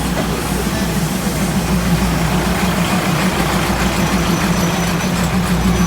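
Heavy diesel engine idling steadily with a pulsing low hum, typical of a diesel train sitting at a station.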